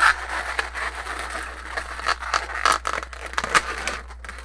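Inflated latex modelling balloons being twisted and worked together by hand, a run of irregular rubbing, crackling scrapes with sharp spikes, easing off near the end.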